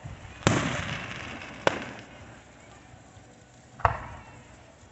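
Three firework bangs, about half a second, one and a half seconds and three and a half seconds in, the first trailing off in a long fading echo.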